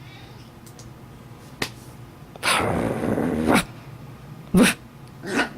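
Chihuahua making short, sharp nasal sounds twice near the end, after a noisy stretch about a second long in the middle.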